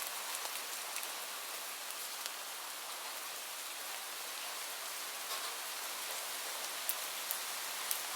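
Steady rain falling, an even hiss with scattered sharp drop taps, a few louder ones near the end.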